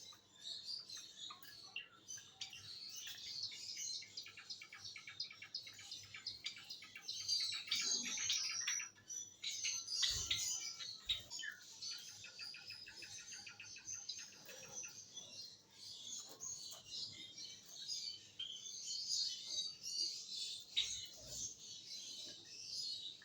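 Java sparrows chirping: a continuous flurry of short, high chirps and clicking notes, with a few brief dull thumps mixed in.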